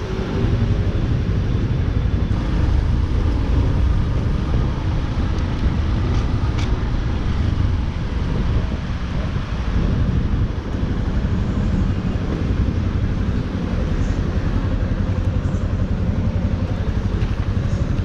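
Yamaha Lander 250's single-cylinder engine running steadily as the motorcycle rides along, with a dense low rumble throughout.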